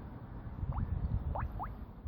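Air bubbles plopping up through a tub of water, three short rising plops over a low rumble, from a slow leak in a pressurised Yamaha 65U engine submerged for a leak test.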